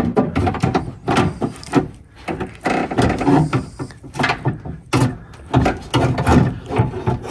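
Repeated clunks, knocks and scraping of the metal window regulator being worked inside a pickup truck's door.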